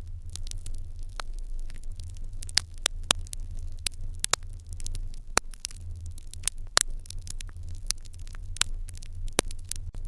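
Wood fire crackling in an irori hearth: irregular sharp pops and snaps, several a second, over a steady low hum.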